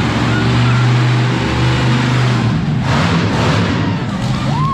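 Monster truck's big engine running loudly with a steady low drone, and a brief rush of noise about three seconds in.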